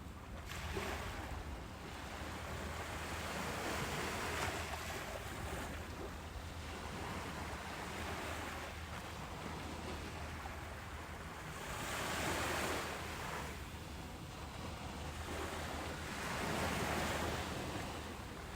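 Ocean waves breaking and washing up a beach: a continuous rushing wash that swells and fades every few seconds, with the biggest surges about two-thirds of the way through and near the end, over a steady low rumble.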